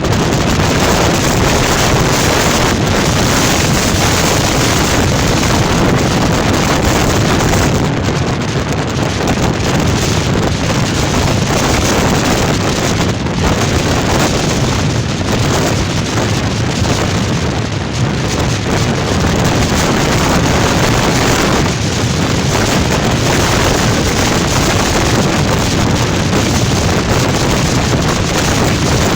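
Storm-force wind buffeting the microphone: loud, continuous wind noise with only slight lulls between gusts.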